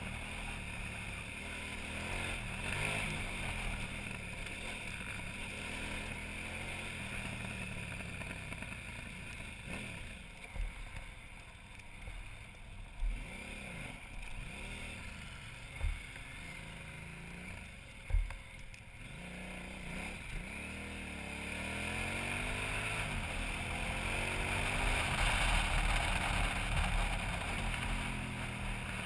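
KTM 990 Adventure's V-twin engine running as the bike rides a dirt track, its pitch rising and falling with the throttle. Four short sharp knocks come between about ten and eighteen seconds in, and the engine grows louder near the end.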